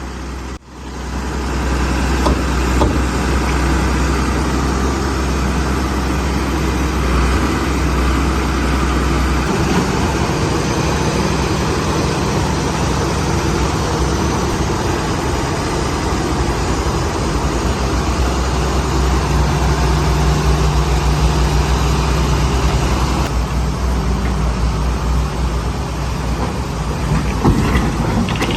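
Excavator diesel engine running steadily with a deep hum, its low note shifting a few times as the machine works.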